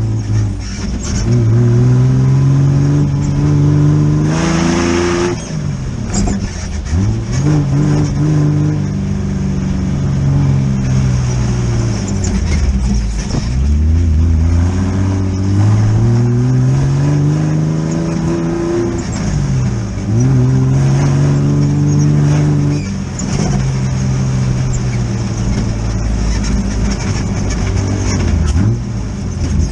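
Air-cooled Volkswagen flat-four engine in an off-road buggy under load, its note climbing steadily and then dropping off sharply several times as it accelerates and shifts or lifts off the throttle. A brief rushing noise joins it about four seconds in.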